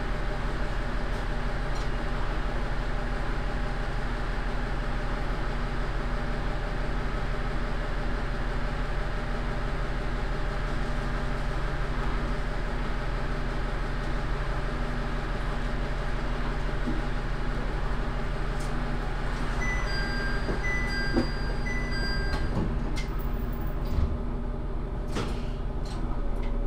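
Diesel railcar running along the track, heard from inside the cab: a steady engine hum over rail and wheel noise. About twenty seconds in, a short repeating electronic tone sounds for a couple of seconds. A few clunks come near the end as the level drops.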